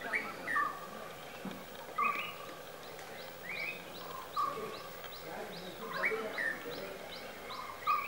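Birds calling: a short two-part call repeats every second or two, and from about three seconds in a fast, even series of short high notes runs alongside it.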